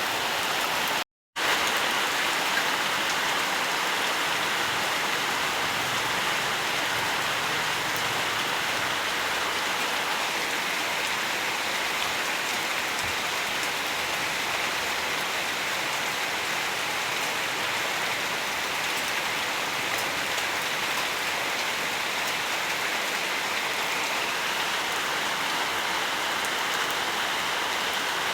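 Steady rainfall, an even hiss of many drops, broken by a split-second cut to complete silence about a second in.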